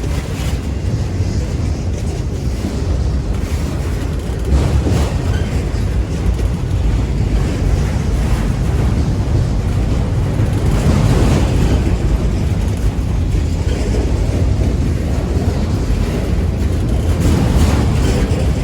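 BNSF freight train of auto-rack cars rolling past: a steady rumble of wheels on rail, with some wind on the microphone.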